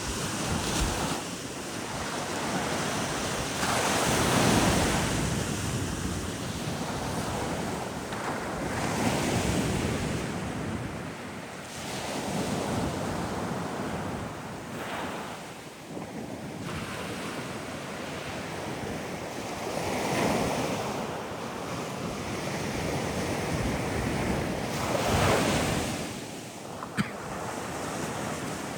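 Sea waves breaking on the shore in slow swells every few seconds, with wind on the microphone. A single short click near the end.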